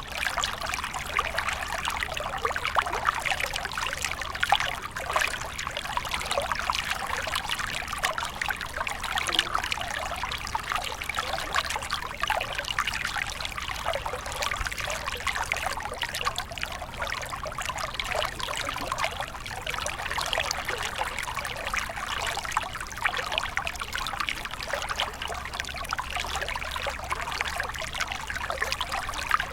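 Small stream flowing steadily over rocks, a continuous babble of trickling and splashing water.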